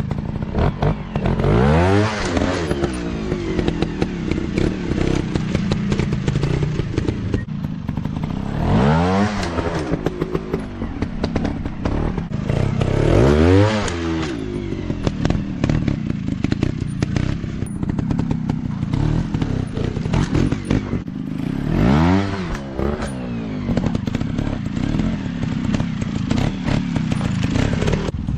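Dirt bike engines revving hard and easing off in about four sharp bursts, over clattering and thumping from the bikes working over rough ground.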